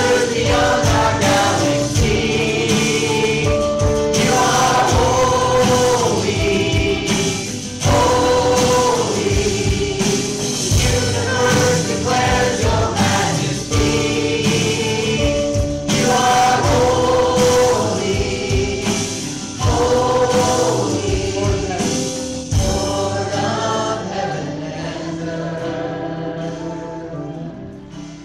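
Gospel-style worship song: a choir singing with band accompaniment, fading out over the last few seconds.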